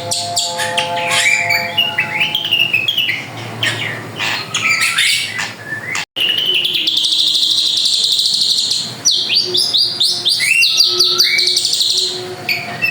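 A drongo (srigunting) singing a lively, varied song of quick chirps, whistled notes and buzzy trills, with a sudden break of a split second about six seconds in.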